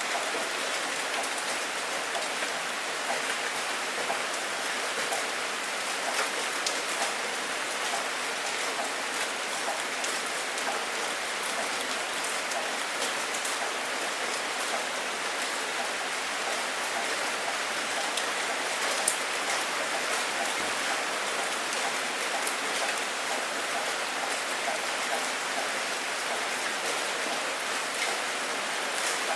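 Steady rain falling, with many individual drops ticking on a surface through the even wash of sound, and one sharper drop hit about two-thirds of the way in. No thunder is heard.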